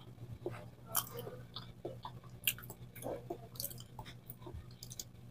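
A person chewing soft peeled banana: wet mouth smacks and clicks at irregular intervals, over a faint steady hum.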